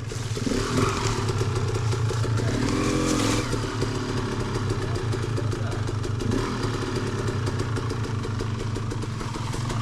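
Dirt bike engine running steadily, with a brief change in its note about three seconds in.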